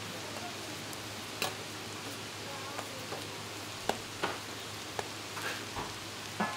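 Stuffed buns sizzling on a hot flat griddle pan as they are dry-fried: a steady frying hiss, broken by a few sharp clicks.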